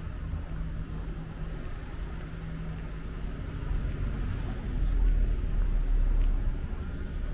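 Street traffic: a motor vehicle engine running close by, a low steady rumble that grows louder about five seconds in.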